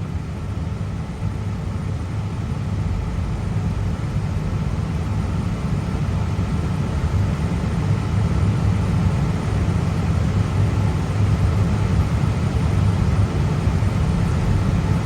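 Airbus A320 cockpit noise on the ground after landing: a steady low rumble from the idling engines and the airframe rolling along the taxiway, growing slightly louder.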